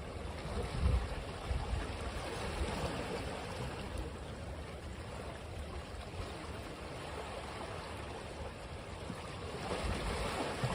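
Ocean surf washing on a beach, with an unbroken wash of water and low rumbles as waves break. The wash swells a little louder near the end.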